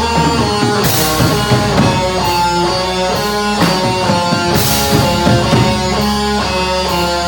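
Heavy metal band playing: electric guitar holds a line of sustained melodic notes over bass and a drum kit. Cymbal crashes come about a second in and again near five seconds.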